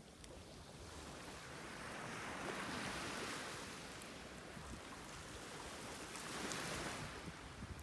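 Sea waves washing onto the shore, the surf swelling up twice, about two and a half seconds in and again near six and a half seconds.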